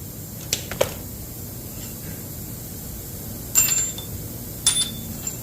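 About five sharp metallic clinks, some with a brief high ring, from hand tools and bolts knocking on metal during an engine teardown, over a low steady hum.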